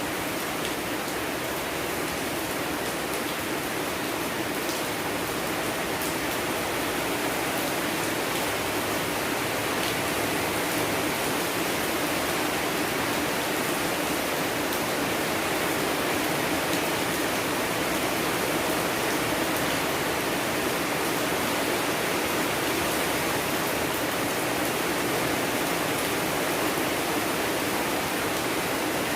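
Steady rain, an even hiss with faint scattered patter of single drops.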